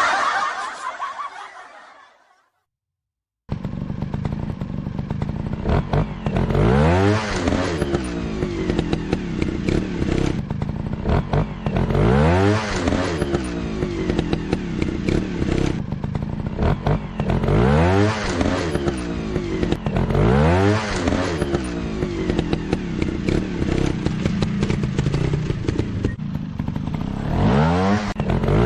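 Dirt-bike engine running with repeated revs, the pitch rising and falling back about every three seconds. It starts about three and a half seconds in, after the tail of fading music and a moment of silence.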